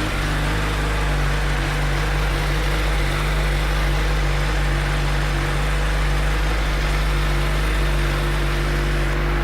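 2013 Suzuki GSX-R1000's inline-four engine idling steadily.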